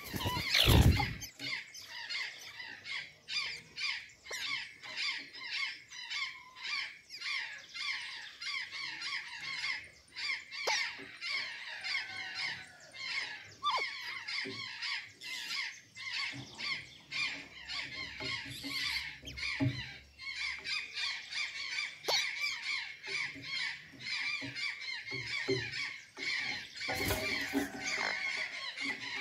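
Azure jays calling: a continuous run of squeaky, squealing squawks repeated several times a second, with a louder call about a second in.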